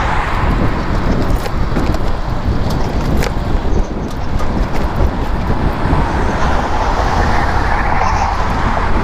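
Steady rush of wind and road noise while riding an e-bike, with the wind buffeting the microphone and a brief click about three seconds in.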